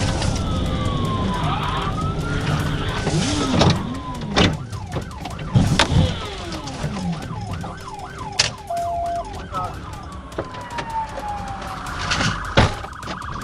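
Police car siren sounding a slow rising and falling wail, switching to a fast yelp for a few seconds and then back to a falling wail, over vehicle engine and road noise. A short steady beep comes about nine seconds in, and several sharp knocks are scattered through.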